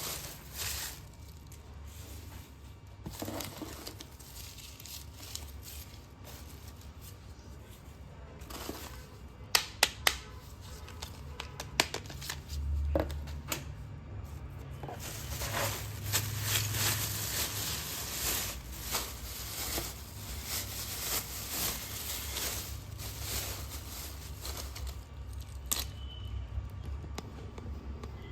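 Close-miked slate pencils being snapped and crunched: a few sharp snaps about ten and twelve seconds in, then a long stretch of dense crunching and crackling.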